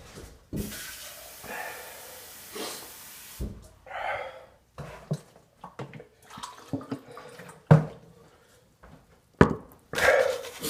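A man eating in a hurry, with heavy breathing and scattered clicks and knocks of handling food. A long hiss runs through the first few seconds.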